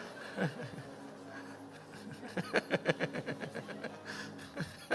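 Laughter in quick, breathy ha-ha bursts, strongest from about halfway through.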